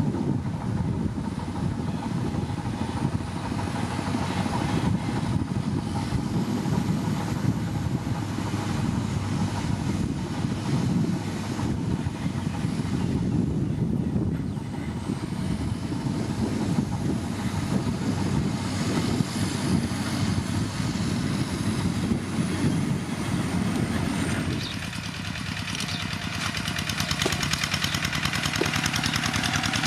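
Heavy road-construction machinery engine running steadily with a dense low rumble and a thin, drifting high whine. About 25 seconds in, the rumble drops away and a higher hiss takes over.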